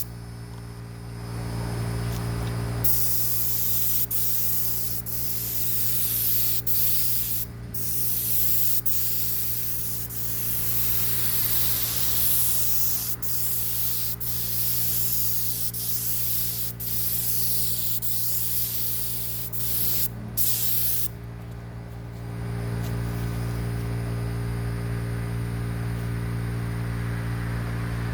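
Paint spray gun hissing as green paint is sprayed on a jon boat: it starts about three seconds in, breaks off briefly twice, and stops about three quarters of the way through. A steady motor hum runs underneath and is louder once the spraying stops.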